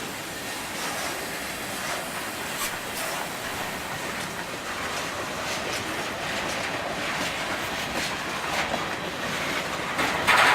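Long freight train's cars rolling slowly past, a steady running noise with occasional clicks from the wheels. A louder burst comes near the end.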